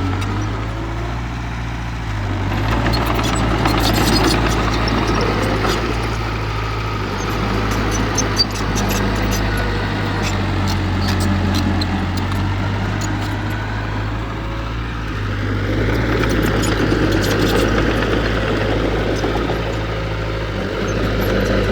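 Diesel engine of heavy earthmoving equipment running steadily, working harder twice with a rise in level, with light clicking and clanking while it works.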